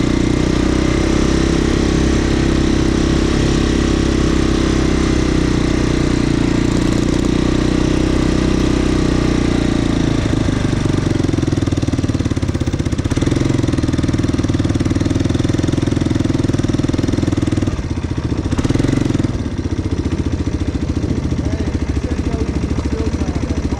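Motorcycle engine idling close by with a steady note. Its pitch shifts about ten seconds in, and it briefly drops and picks up again near the end.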